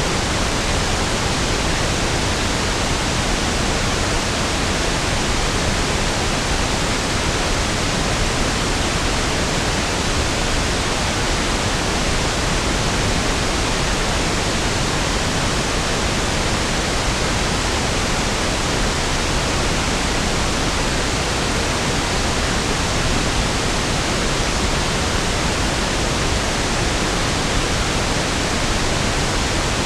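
Steady pink noise: an even, unchanging hiss spread evenly across low and high pitches, smoother and deeper than white noise.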